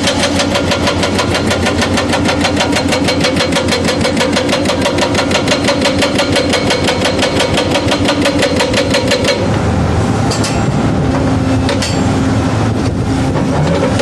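Furukawa FHE190 hydraulic breaker on a Doosan excavator hammering in rapid, even blows, about seven or eight a second. The hammering stops about nine seconds in, leaving the excavator's engine running.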